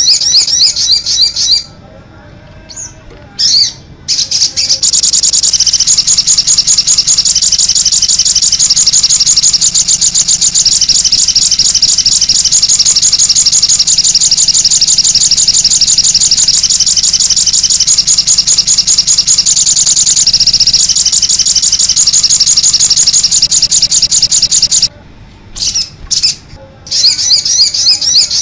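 Sogon bird giving its rapid, high-pitched chirping call, the 'cit anten' type: short bursts of chirps at first, then a fast, unbroken trill of repeated notes lasting about twenty seconds, breaking back into short chirp phrases near the end.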